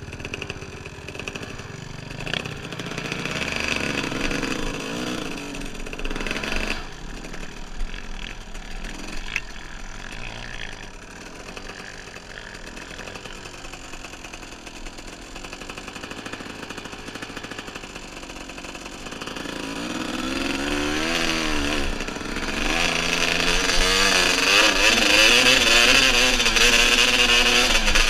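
Dirt bike engine running while riding a trail, its pitch rising and falling with the throttle. It is quieter through the middle stretch, then revs up and grows louder near the end.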